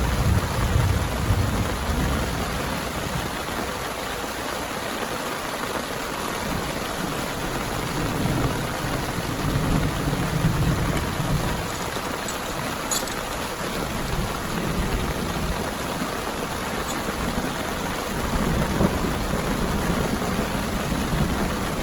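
Heavy rain falling steadily, with low rumbles of thunder swelling and fading a few times.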